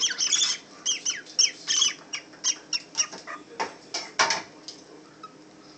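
Birds giving a rapid series of short, high, shrill squawking chirps, each sliding down in pitch, two or three a second, fading out about four and a half seconds in.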